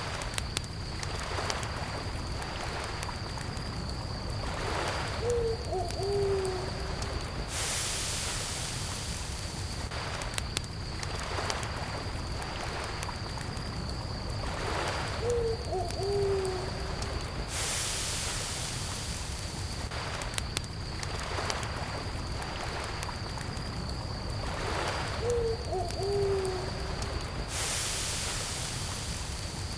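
Campfire and lakeside night ambience: a crackling fire pops and snaps over a low bed of lapping water, with a steady high trill of crickets throughout. A short, low, hooting call comes three times, about ten seconds apart. The whole mix repeats in the same ten-second pattern.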